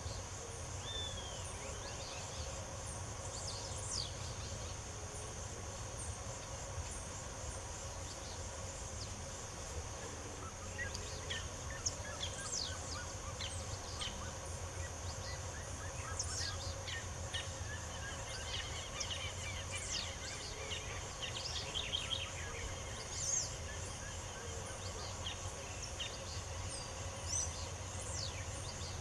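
Several birds singing and chirping, with many short calls and quick falling whistles coming thicker through the middle, over a steady high insect drone and a low background hum.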